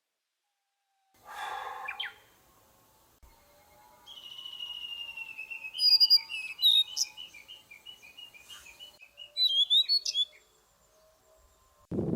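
Wild songbirds singing. A short harsh call comes about a second in, then from about four seconds a long run of high chirps, trills and whistled notes, which stops a couple of seconds before the end.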